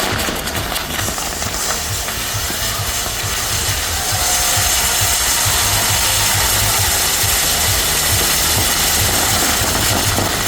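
Continuous rushing hiss of firework fountains on a Maltese ground-firework set piece shaped as a sun. It grows louder and brighter about four seconds in, over an uneven low rumble.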